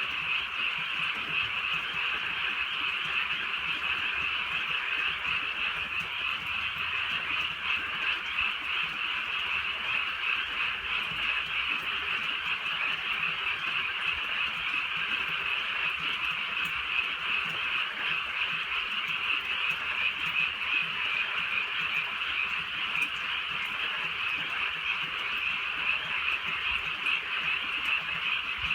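A dense chorus of many frogs calling together without a break, a steady shimmering trill of overlapping calls.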